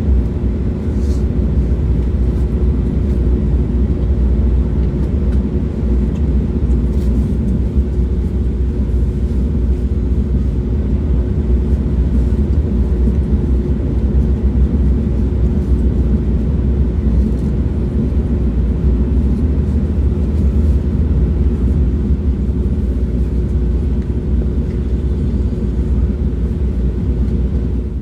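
Train running: a steady low rumble with a faint, even hum over it and a few light clicks.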